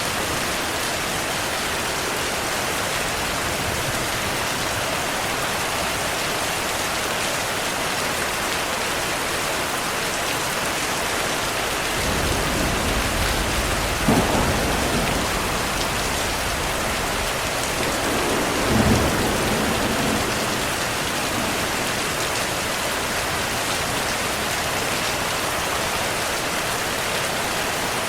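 Heavy rain falling steadily, with thunder rolling in about halfway through: a rumble that builds, a sharp crack, then a second louder clap a few seconds later that rumbles away.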